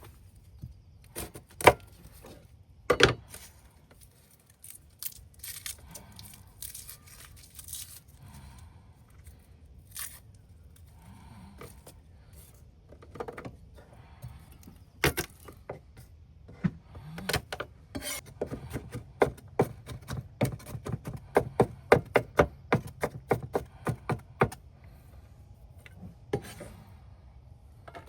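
Handling of camp gear: scattered knocks and clicks on wood with rubbing and scraping between them, then a quick run of short knocks about two-thirds of the way through.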